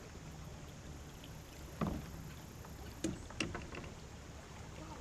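A few short, sharp knocks on a fishing kayak's hull, three of them about two and three seconds in, over a low steady rumble.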